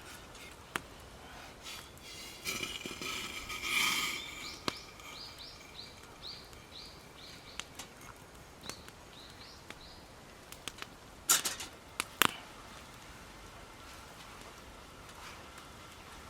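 A small bird calls a run of short, high chirps at about two a second. Around it are scattered sharp clicks and a brief rustle, with two loud clicks near the end.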